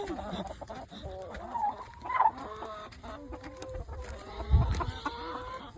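Several backyard chickens clucking and calling in short, wavering notes, with one long drawn-out call held steady through the second half. A low bump partway through.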